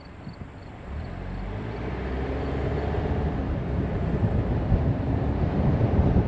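Car picking up speed: engine and road noise start about a second in and grow steadily louder, with wind noise building.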